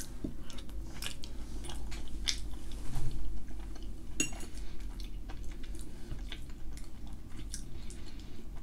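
Close-miked chewing and mouth sounds of a person eating a mouthful of potato and ham gratin, with scattered light clicks of a metal fork against a ceramic plate, over a steady low hum.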